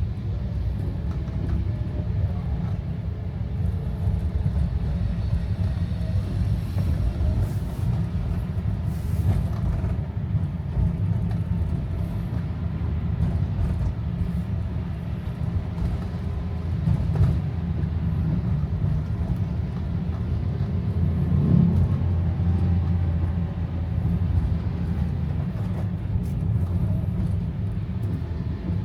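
Steady low rumble of a car driving, heard from inside the cabin, with a fainter hiss above it.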